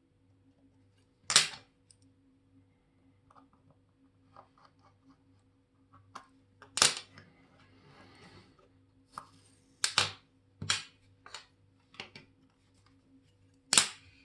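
Sharp clicks and taps of watchmaker's tools and small metal parts on the bench: about six loud ones spread irregularly among fainter ticks, with a brief soft rustle midway and a faint steady hum underneath.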